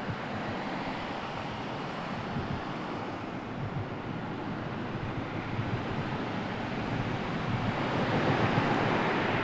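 Sea waves washing on a shore: a steady rush of surf that swells to its loudest near the end as a wave breaks.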